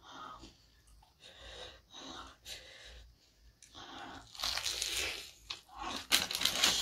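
Close-up crunching and chewing of crispy fried chicken, eaten by hand. Irregular bites and chews, the crunching louder and denser over the last two and a half seconds.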